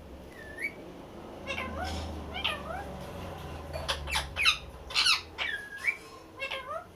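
Parrot calling: a series of short squawks and whistled calls that glide up and down in pitch, clustered most densely and loudest about four to five seconds in.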